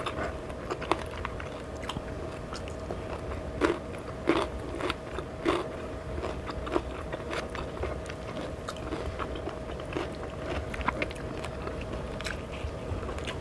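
A person eating close to the microphone: irregular bites, chewing and crunches with small mouth clicks.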